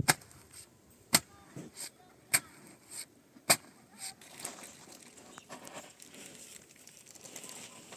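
A series of sharp knocks, about seven spaced half a second to a second apart, during hand building work, then fainter scraping and rustling.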